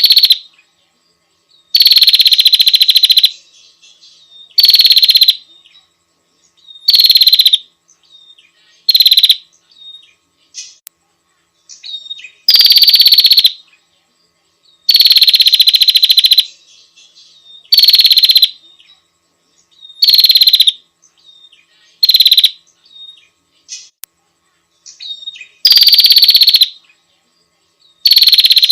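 Female prenjak (prinia) calling to a male: loud, fast buzzing rattles, each starting a little high and settling, about every two seconds. They come in three runs in which the rattles grow shorter, with a gap of about two seconds between runs.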